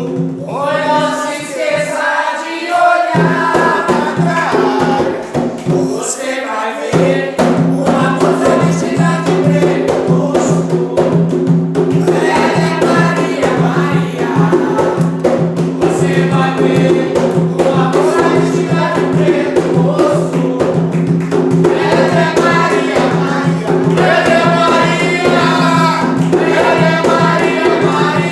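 Group of voices singing an Umbanda ponto, a devotional chant, over percussion and steady sustained notes from an accompanying instrument.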